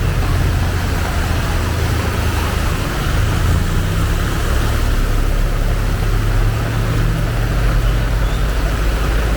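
Heavy rain pouring steadily, with a motor vehicle's engine running as a steady low drone underneath.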